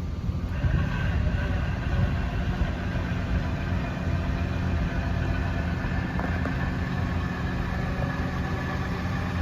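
An engine idling steadily with a low rumble; a faint, steady high whine joins it about half a second in.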